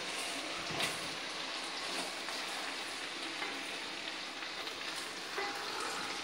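Chopped vegetables sautéing in oil in a stainless steel pot, a steady sizzle, with one light click about a second in.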